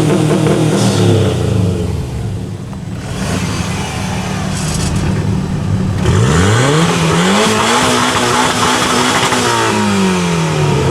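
A modified vehicle engine with a loud aftermarket exhaust is revved hard and held at a fixed rpm on a two-step limiter. At first one rev holds and then drops away. After a lull, a rev climbs quickly about six seconds in, holds steady for about two seconds and falls back down.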